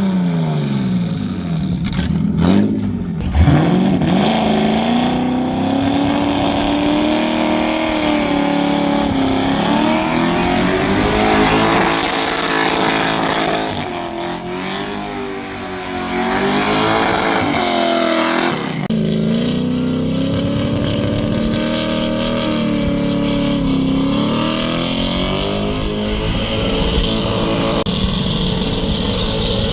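V8 muscle car engine held at high revs through a burnout, its pitch wavering up and down as the throttle is worked. The revs dip sharply and climb back about three seconds in, and drop again near nineteen seconds, over a steady hiss.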